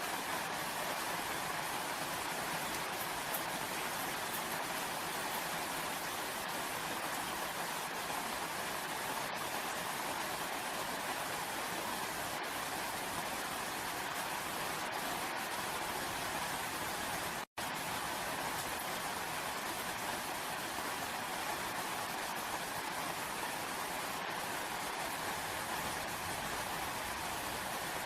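Steady, even rain falling, heard as a continuous hiss with no separate drops standing out. It cuts out completely for a split second about two-thirds of the way through.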